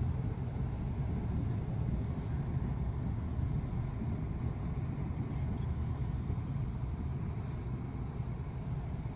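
Steady low rumble of a bus driving through city streets, its engine and road noise heard from inside the passenger cabin.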